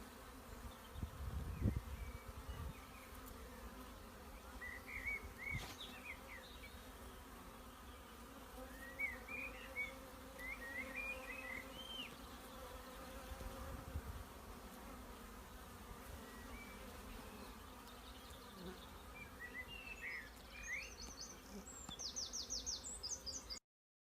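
Bees buzzing steadily around a hive, with short high chirps at intervals and a fast high trill near the end before the sound cuts off suddenly.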